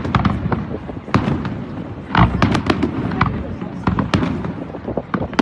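Fireworks going off in quick, irregular bangs and crackles, with a heavier boom about two seconds in.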